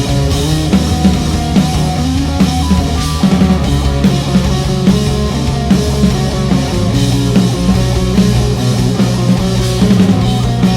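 Live grunge rock band playing an instrumental passage between sung verses: electric guitar, bass and drum kit at full volume.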